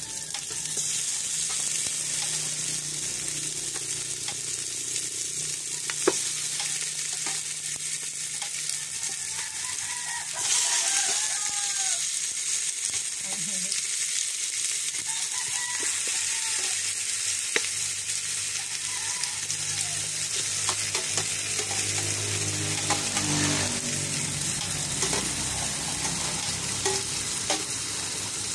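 Pieces of native chicken sizzling as they fry in hot oil with sautéed garlic, ginger and lemongrass in a pot. The sizzle gets louder about ten seconds in, with a few sharp clacks and a low steady hum underneath.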